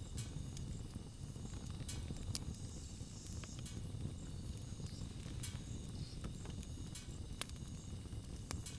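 Wood campfire burning: a steady low rumble with irregular sharp crackles and pops, a few of them louder than the rest.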